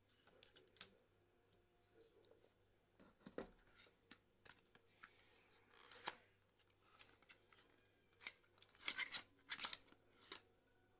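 Irregular small clicks, snips and scrapes of hand tools working on a Redmi 9A phone, with a louder cluster near the end.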